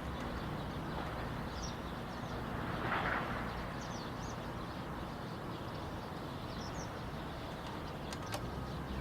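Low steady rumble of distant DD51 diesel locomotives, with short bird chirps now and then over it.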